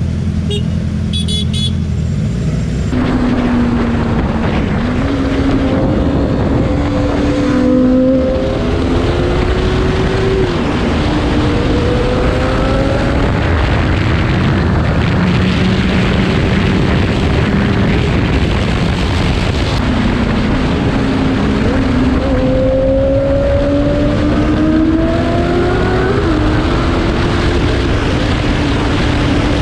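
Motorcycle engine being ridden hard. It runs steadily at first, then from about three seconds in it climbs in pitch again and again, dropping back at each gear change, under a loud steady rush of road and wind noise.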